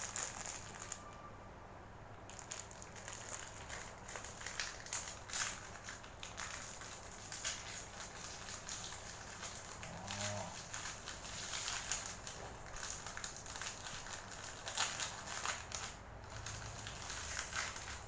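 Plastic wrapping around a self-heating hot pot's heating pack being torn open and handled, with irregular crinkling and crackling.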